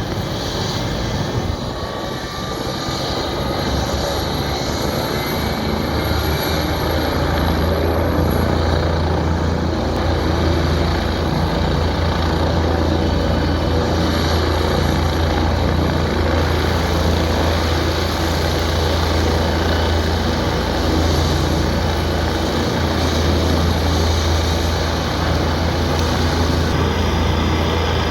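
Helicopter running close by, its engine and rotor making a loud, steady noise with a strong low rotor drone, building a little over the first few seconds as it powers up for takeoff.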